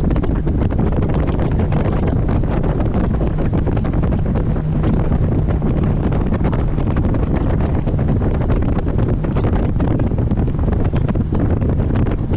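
Heavy wind buffeting the microphone of a camera on a moving boat, over the boat's steady, low engine hum.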